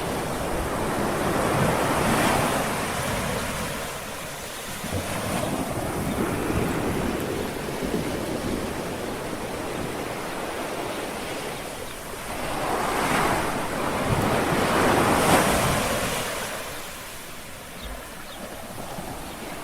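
Small waves lapping and washing on a shore, swelling and ebbing: louder surges about two seconds in and twice more in the second half.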